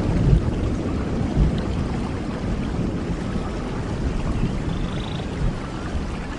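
Steady rain falling, a dense hiss with a heavy low rumble underneath. A faint short high trill comes through about five seconds in.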